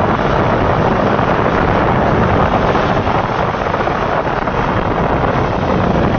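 Heavy rain pouring, a steady loud hiss of noise.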